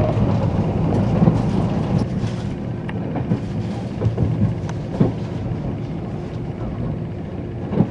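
Running noise inside a JR 485-series express train car: a steady rumble of wheels on rail with a few sharp knocks, gradually getting quieter.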